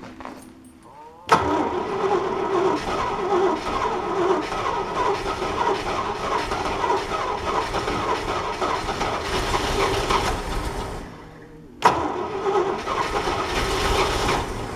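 International Scout II engine cranked on the starter, catching with a sudden start and running roughly for about nine seconds before dying away: there is no gas in the fuel line yet. About a second later it is cranked again and runs on to the end.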